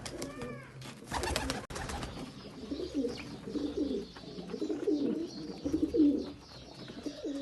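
Pigeons cooing, repeated low wavering coos through the second half. A short rustling noise comes about a second in.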